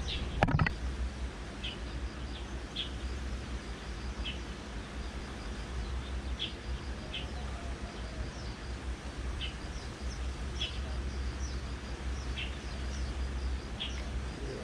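Open-air ambience: short, high bird chirps repeating irregularly about once a second over a steady low rumble. A sharp knock about half a second in is the loudest moment.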